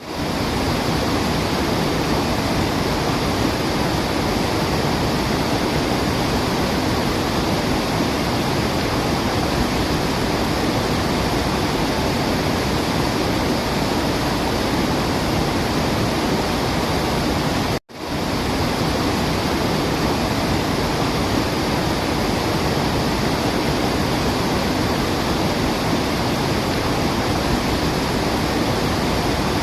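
Waterfall, a steady rush of falling water. It cuts out for an instant about 18 seconds in, then resumes.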